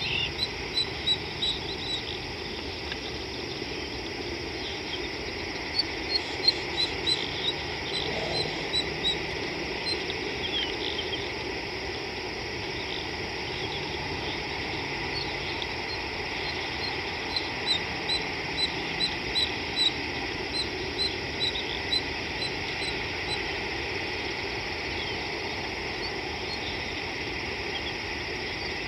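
A bird calling outdoors in runs of short, high chirps repeated several times a second, in three bursts over a steady background hiss.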